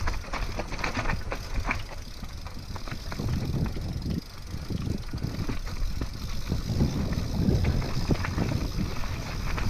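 Trek Remedy full-suspension mountain bike riding a rooty trail section: a steady rumble of tyres on the ground with frequent sharp knocks and rattles as the bike goes over roots.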